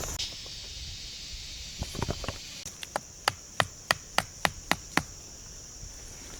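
A run of sharp wooden knocks, a few scattered at first, then a regular series of about three a second, as when something is struck or chopped on wood.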